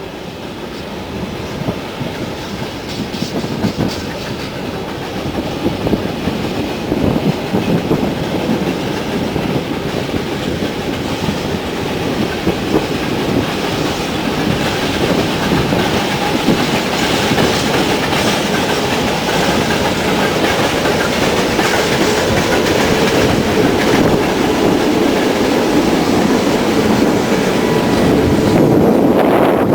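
A train running on a standard-gauge main railway line, getting steadily louder across the whole stretch, with short knocks scattered through the noise.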